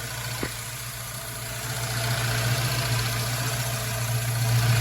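1972 Ford Mustang's fuel-injected engine with tubular headers idling steadily, growing louder about two seconds in, with a single click shortly after the start. No exhaust leak at the headers or collector: the ticking the owner hears is put down to the fuel injectors.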